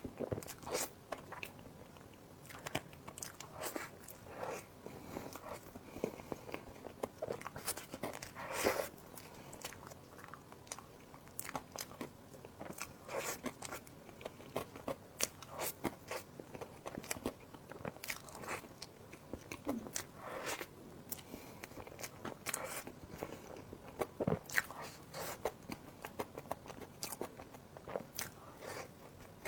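Close-miked eating: a person biting and chewing food, with crunching and sharp, wet mouth clicks coming irregularly, several a second.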